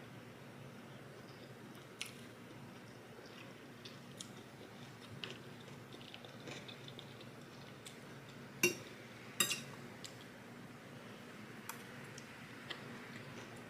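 A person chewing a mouthful of fried rice, with soft mouth sounds and small clicks; two louder, sharper clicks come close together about nine seconds in.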